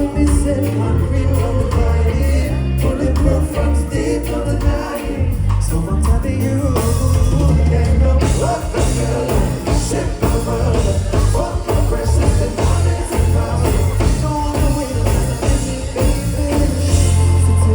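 Live band playing a reggae-pop song over a PA, with a heavy bass line, steady drums and singing.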